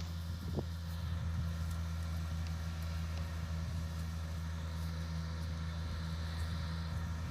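Heavy diesel engine running steadily at a constant speed, a deep even hum, with one light clank about half a second in.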